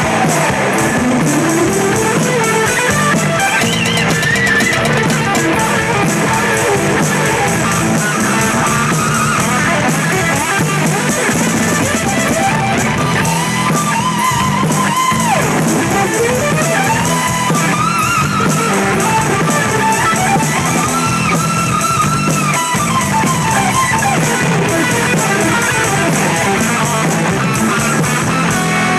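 Hard rock instrumental break: a lead electric guitar solo with sliding, bending notes over rhythm guitar and a drum kit keeping a steady beat.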